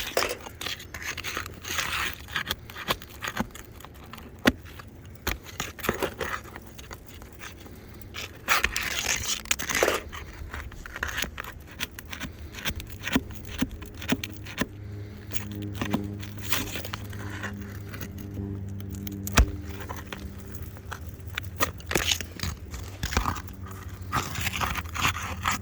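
Asphalt roof shingles being lifted and nails worked loose: scattered scrapes, clicks and crackling as the brittle shingles crack and break. A steady low hum joins in about halfway through.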